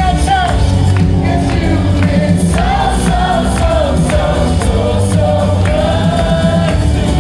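Gospel praise music: a worship band playing with group singing over a steady bass and a regular beat.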